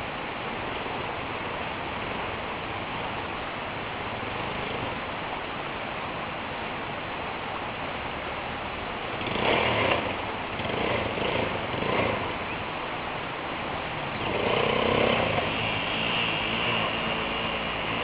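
Motorcycle engine running under a steady rushing noise, getting louder twice in the second half as it is revved.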